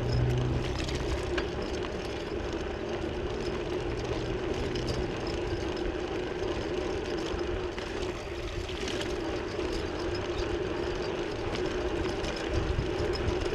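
Steady rush of riding noise from a moving bicycle, wind and tyres on the road, with a steady hum underneath.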